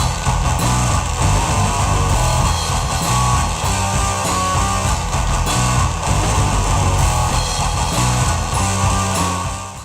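Rock band playing, with electric guitar and bass guitar, fading out near the end.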